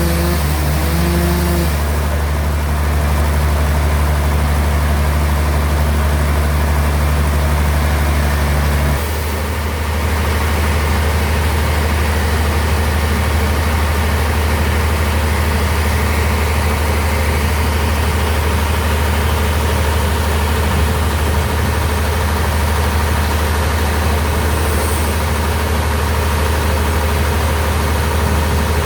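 Sawmill bandsaw running steadily with a deep hum. About nine seconds in the level dips briefly and a higher tone in the hum cuts out, then it runs on.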